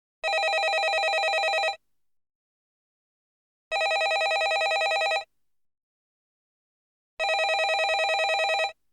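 Landline telephone ringing: three rings of about a second and a half each, each with a fast trill, repeating about every three and a half seconds with silence between.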